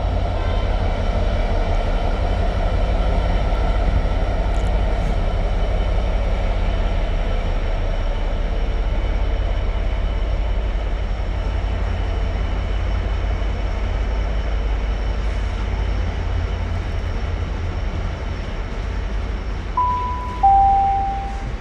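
Freight train of tank wagons hauled by a Class 66 diesel running through on the main line: a steady, loud rumble of wagon wheels on the rails. Near the end, a station public-address chime sounds two notes, the second lower than the first.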